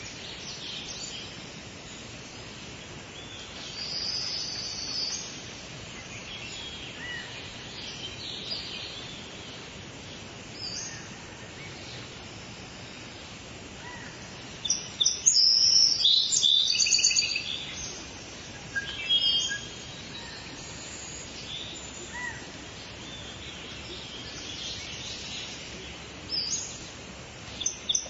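Wild birds chirping and singing over a steady background hiss. Scattered short calls are heard, with a loud run of rapid chirps about halfway through and more bursts later on.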